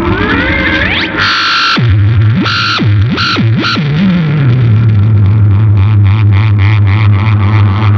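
Gibson SG electric guitar through a Big Muff fuzz and MXR Analog Delay, making spacey effects noise: a pitch rising over the first second, a few harsh bursts with swooping pitch drops, then a steady low droning hum with rapid pulsing above it.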